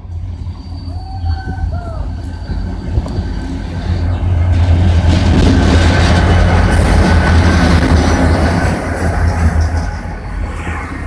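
EMD GT-22CW diesel-electric locomotive hauling a passenger train into a station: a steady low diesel rumble grows loud as the locomotive passes close, about four seconds in. Then the coaches roll by on the rails, and the sound eases off near the end.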